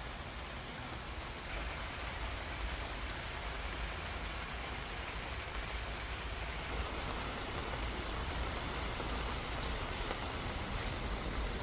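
Steady rain falling, an even hiss with scattered patter of drops and a low rumble underneath.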